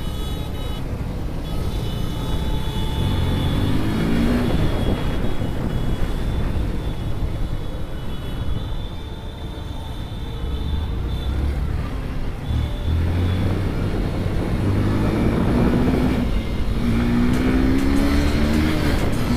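Motorcycle engine being ridden hard through traffic: the revs climb in steps as it accelerates through the gears about four seconds in, ease off and drop in level around the middle, then climb again over the last few seconds.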